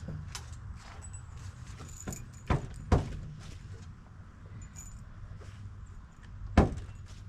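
Knocks from work on a wooden deck frame: three sharp, loud impacts, two close together about two and a half seconds in and one near the end, among lighter clicks and rattles, over a low steady hum.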